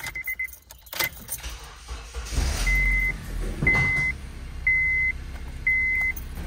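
A 2007 Honda Civic's engine is cranked and starts about two and a half seconds in, then settles into a steady idle. A high dashboard chime beeps about once a second.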